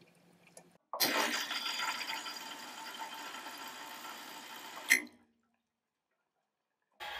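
Salvatore espresso machine pushing water through its group head, a steady hiss and splash of water starting suddenly about a second in. It stops with a sharp click about five seconds in. A short dead silence follows, then another steady rushing noise starts near the end.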